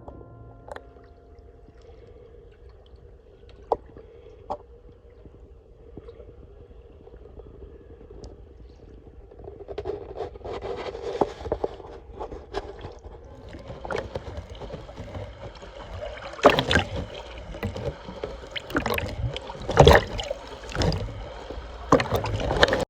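Kayak paddling: water splashing and lapping with paddle strokes. It is faint for the first several seconds, then grows louder from about ten seconds in, with sharp splashes and knocks near the end.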